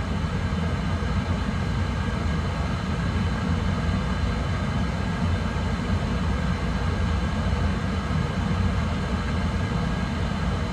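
Residential oil boiler's burner firing steadily, a constant low rumble of flame and blower. The freshly serviced burner is running with its combustion efficiency holding at about 85.5%.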